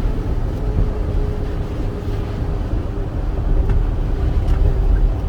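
Steady low rumble of a 2008 Ford F-450 turbodiesel truck cruising, heard from inside the cab, with road noise and a faint steady hum.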